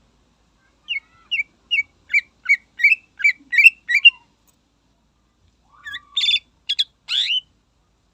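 Cucak ijo (green leafbird) singing: a run of about ten quick, evenly spaced whistled notes, then, after a short pause, a few rougher notes.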